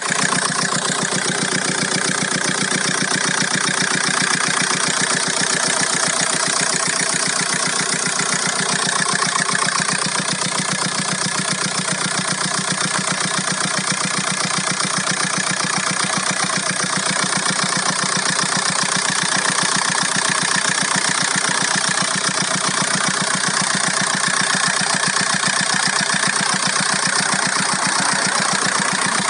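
VW Golf 4's 1.9 TDI four-cylinder diesel engine idling steadily with a fast, even clatter, carrying a strange noise that the owner cannot identify.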